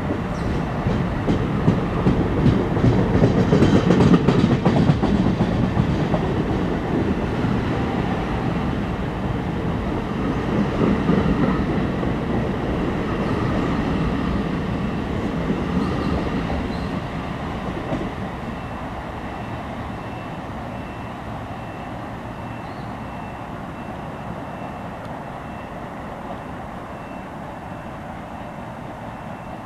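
NJ Transit bi-level commuter coaches rolling past as the train pulls out of the station, wheels clicking over the rail joints; the rumble is loudest about four seconds in, drops off after about seventeen seconds as the last car passes, and fades to a steady distant rumble.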